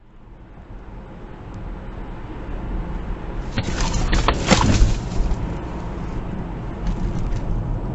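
Vehicle road noise building up steadily, with a quick run of several sharp knocks or bangs about four seconds in.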